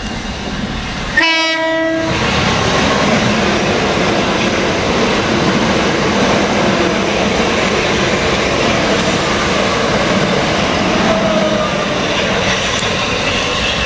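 A Southern Class 377 Electrostar electric train sounds a short horn blast about a second in, then passes through the station at speed without stopping, with loud, steady wheel-and-rail noise.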